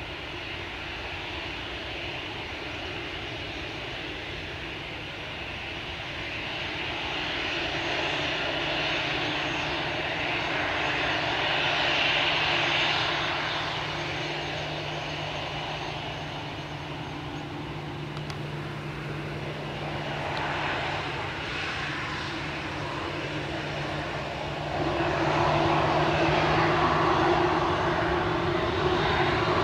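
Airbus A320 jet engines running: a steady jet roar with a few held tones. It swells and eases a little, then steps up louder near the end.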